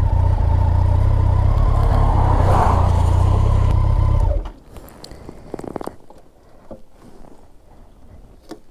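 Kawasaki ZZR1400's inline-four engine running with a steady low rumble, then switched off about four and a half seconds in as the bike stops; a few faint clicks and knocks follow.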